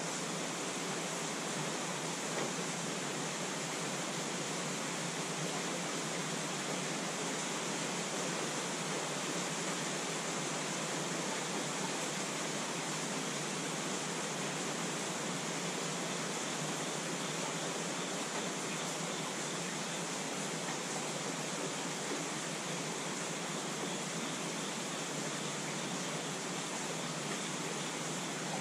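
Steady rainfall, an even hiss that holds level throughout with no single drops or other sounds standing out.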